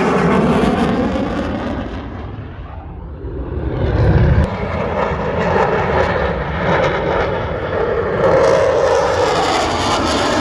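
Royal Danish Air Force F-16 fighter's jet engine running loud as the aircraft flies past. The sound eases for a moment about two to three seconds in, then swells back with a deep rumble near four seconds and stays loud.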